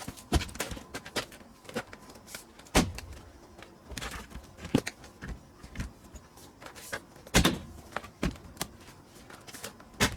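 Pine firewood being split: irregular wooden knocks and clatter, with two heavier strikes, about three seconds in and again past seven seconds.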